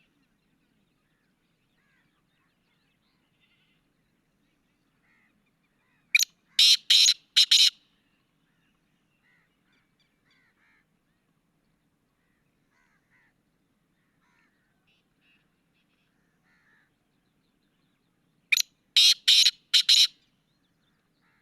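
Black francolin calling twice: each call is a brief lead-in note followed by four loud strokes in quick succession, about six seconds in and again near the end.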